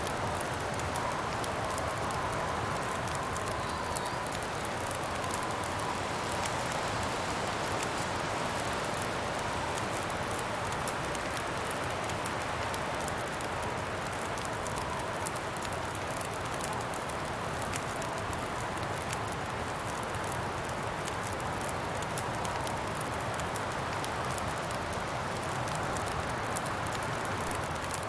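Campfire crackling with many small, sharp pops over a steady rush of wind. A faint wavering whistle sits above the noise through most of it.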